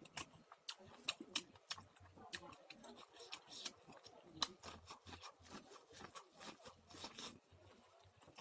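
Popcorn being chewed close to the microphone: an irregular run of crisp, quiet crunches, a few a second, with soft mouth sounds between.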